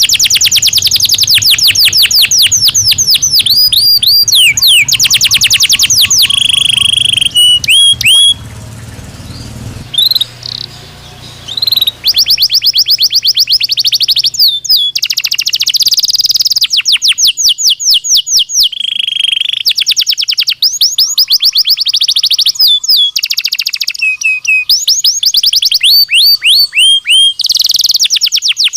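Belgian canary singing in fast rolling trills: runs of many quick repeated notes, some rising and some falling, broken by short held buzzy phrases. The song drops back briefly about a third of the way in, then resumes.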